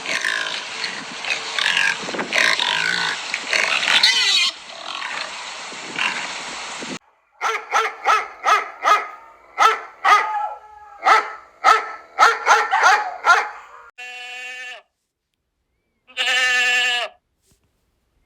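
A string of animal calls: about seven seconds of dense squealing and grunting, then a dog barking about a dozen times at roughly two barks a second, then two short drawn-out calls near the end.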